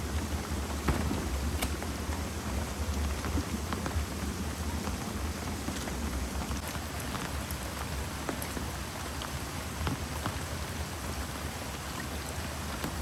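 Heavy rain pouring steadily, with many scattered sharper drop hits and a steady low rumble underneath.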